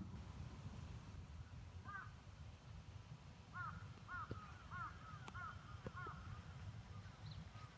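A bird calling in a quick series of about eight short calls, roughly one every half second, starting about two seconds in and stopping about six seconds in, over a faint steady low rumble.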